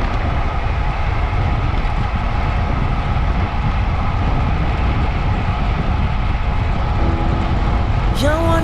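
Steady road noise of a vehicle under way: engine running and wind rumbling on the microphone, with no change in pace. Music comes back in near the end.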